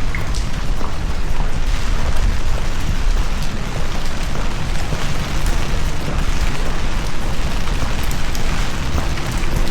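Heavy rain falling steadily, with a strong, uneven low rumble underneath and scattered drop ticks on top. A faint steady hum comes in near the end.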